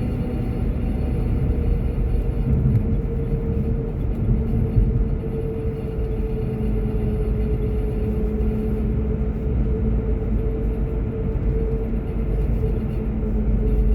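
Car driving at steady speed: a constant low rumble of road and engine noise with a faint steady hum.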